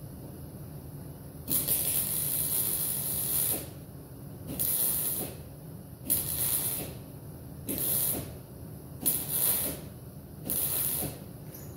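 Welder laying six short bursts of weld on a jeep's sheet-metal body panel, each a crackling hiss that starts and stops, the first about two seconds long and the rest shorter, with a low steady hum between them.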